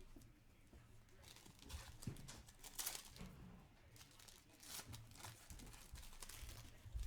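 Trading-card pack wrappers being torn open and crinkled while cards are handled: faint, a string of short crackles.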